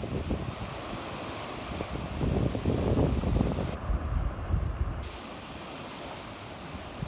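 Sea waves washing onto the shore, one surging louder about two seconds in and dying away by about five seconds. Wind rumbles on the microphone underneath.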